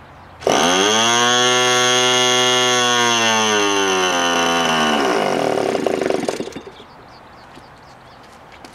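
Electric starter spinning the OS .46AX nitro glow engine for about four and a half seconds, a steady whine that falls away as it winds down, followed by a second of uneven rattling. The engine does not catch: it is not yet pulling fuel, its carburettor gummed up from sitting unused.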